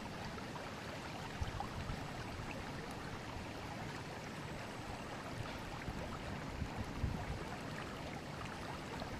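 Steady rush and burble of a forest river's flowing water, with a couple of brief low rumbles about a second and a half in and again near the end.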